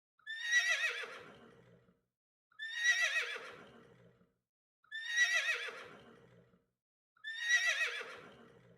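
A horse whinnying four times, the same call repeated about every two and a half seconds: each a high, quavering cry that falls away into a lower shudder.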